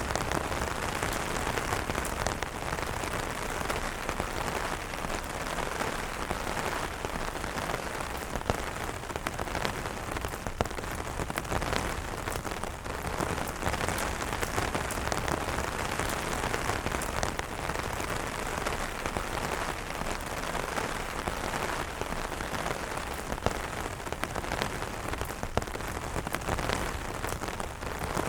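Steady heavy rain falling on umbrella canopies: a dense, even wash of rain with many distinct sharp drop hits scattered through it.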